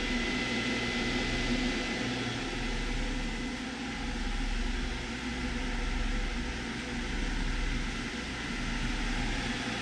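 Steady whir of electric cooling fans with a low hum underneath: the cooling rig of a running 12 V water-cooled heat pump.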